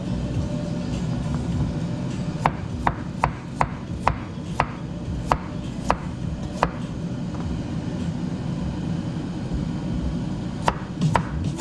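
Knife chopping on a cutting board in single, separate cuts: a run of about nine, roughly two a second, then a pause of a few seconds and three more near the end.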